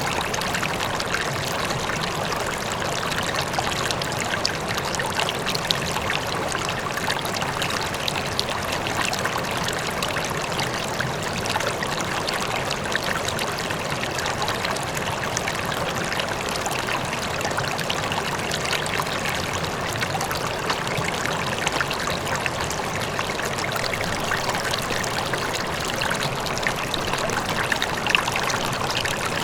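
River water flowing: a steady, even rush with small brief peaks of trickling and splashing through it.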